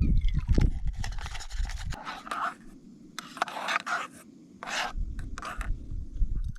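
A series of short scraping and rubbing noises, with a low rumble before and after them.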